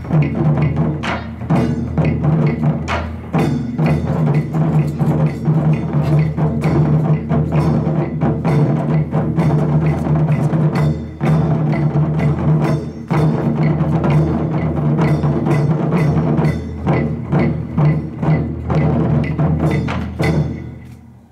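Taiko drum ensemble playing a fast, driving rhythm of many strikes, which dies away near the end.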